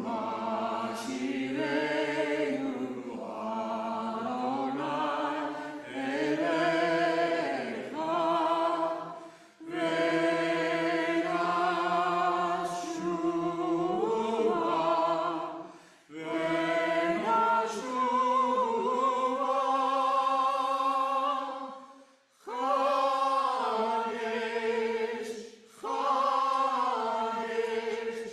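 A group of voices singing together in long held phrases, with short breaks for breath between phrases.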